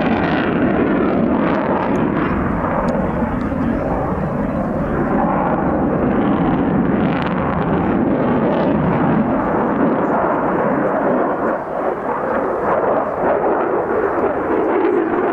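Aircraft engine noise from an airshow flying display, loud and steady with slight swells in level.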